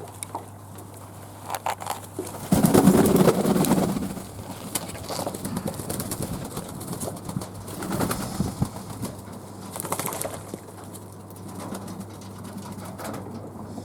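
Fantail doves cooing, with the loudest stretch about two and a half seconds in lasting over a second, and softer bouts later on.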